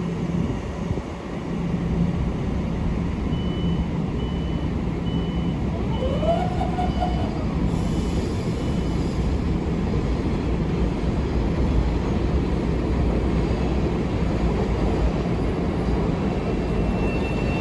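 Long Island Rail Road train running past at the station, a steady rumble of wheels and motors. A high beep repeats about every second from a few seconds in, for roughly five seconds, and a short tone rises and holds near the middle.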